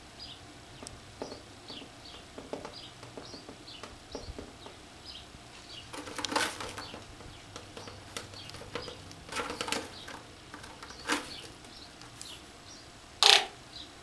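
Small birds chirping in short, high, falling notes about twice a second, broken by a few sharp rattling clatters, the loudest near the end.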